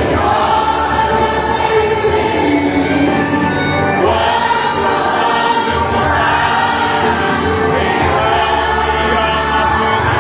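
A choir or congregation singing a gospel hymn with musical accompaniment, in long sustained sung notes.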